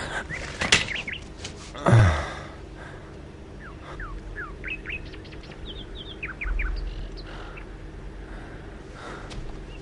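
Small birds chirping, a run of quick short sliding chirps through the middle. A few clicks come first, then a brief loud sound about two seconds in.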